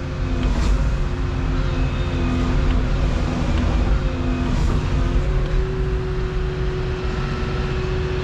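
Volvo 235EL excavator's diesel engine running steadily under work, with a steady tone setting in about halfway through.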